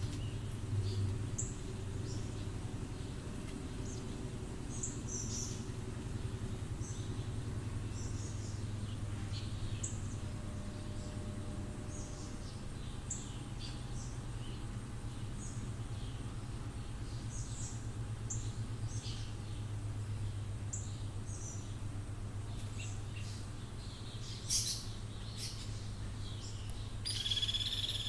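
Birds calling: short, high chirps scattered throughout, with a louder call near the end, over a steady low hum.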